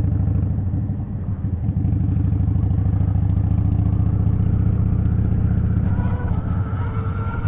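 Harley-Davidson V-twin motorcycle engine running steadily at low revs with a low, even throb.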